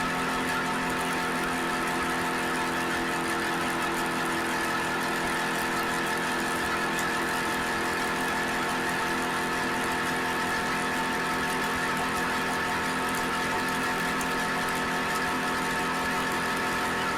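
Suzuki SV650X's 645 cc V-twin engine running steadily at a constant engine speed, with no change in revs.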